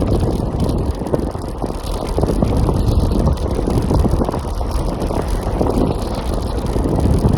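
Wind buffeting the microphone of a phone mounted on a Segway E3 Pro ridden at speed, a loud, steady low rumble.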